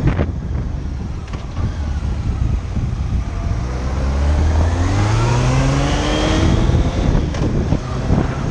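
Motorcycle engine accelerating, its pitch rising steadily for about three seconds from a little before the middle, over a constant rush of wind across the microphone.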